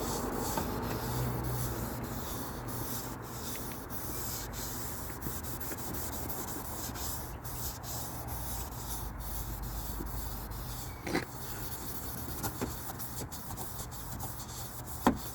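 Hand rubbing a faded plastic headlight lens with headlight cleaning solution in circular strokes, a steady scrubbing hiss. A short sharp knock comes about eleven seconds in.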